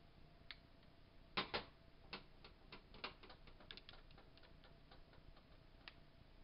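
Clicks and light taps of small parts of a Crosman PowerMaster 760 BB gun being handled as its barrel holder is taken off: two sharper clicks about a second and a half in, then a scatter of fainter ticks.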